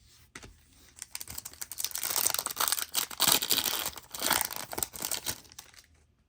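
A foil trading-card pack being torn open and its wrapper crinkled, a dense crackling that starts about a second in and lasts about four seconds.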